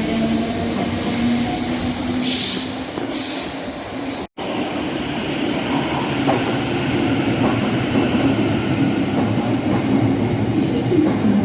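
Electric train with its traction motor tones rising slightly in pitch, as when pulling away. About four seconds in the sound cuts out abruptly, and then steady train running noise follows.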